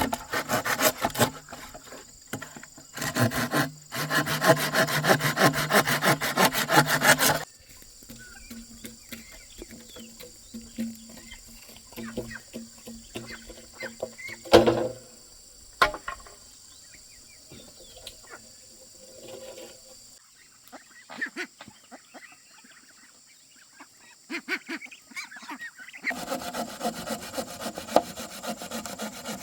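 Wood being worked by hand with quick, rhythmic scraping strokes, in three spells, with a single sharp knock about halfway through.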